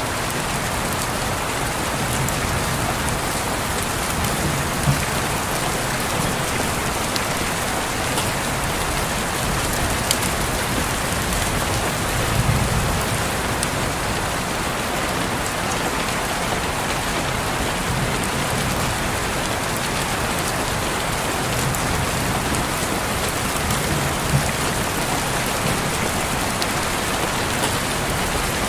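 Steady rain falling on a window, an even hiss with scattered sharper drop ticks and a few soft low swells.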